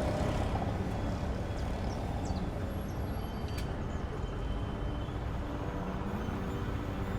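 A motor engine running steadily with a low rumble, its hum rising a little in pitch and growing stronger near the end.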